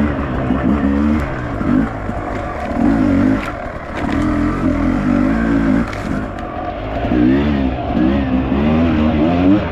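Enduro dirt bike engine revving up and down in repeated short bursts of throttle, the pitch rising and falling about every second.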